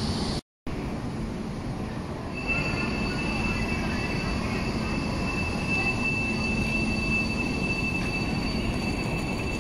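High-speed train running at a station, a steady rumble with a steady high-pitched squeal that sets in about two seconds in. The sound cuts out briefly near the start.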